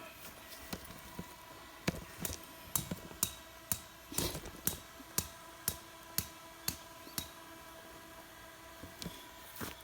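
A run of short, sharp knocks, about two a second, stopping about seven seconds in, with a couple more near the end.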